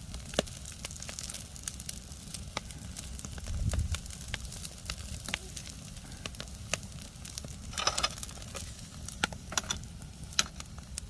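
Wood fire crackling with many sharp, irregular pops, and semi-dried sea bass sizzling as it grills over the flames.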